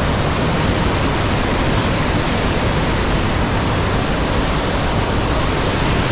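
Steady, loud rush of a large waterfall: falling water roaring without a break, with a deep rumble underneath.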